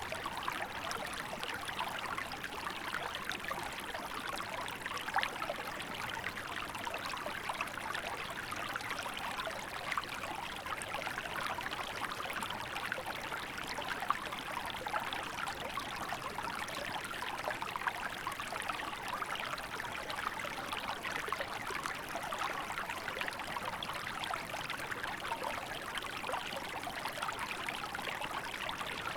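Small river flowing steadily in winter, water babbling and trickling over rocks.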